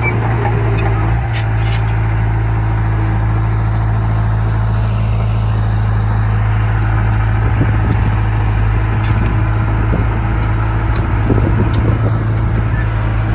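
Bulldozer's diesel engine running at a steady speed, with a constant low hum and a few light clanks.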